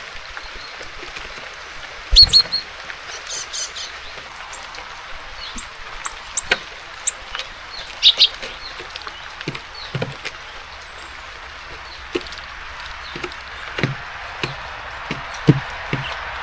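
Steady hiss of rain, with a few short, high bird chirps and a loud thump about two seconds in. Later come a string of light knocks and taps: small birds such as a great tit hopping and pecking at seeds on a wooden feeder.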